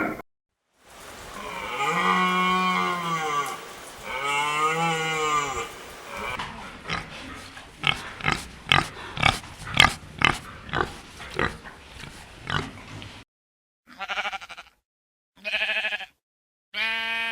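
A sequence of farm animal calls: two long calls that rise and fall in pitch, then a run of short rapid grunts, about two or three a second, then three short calls after a brief pause.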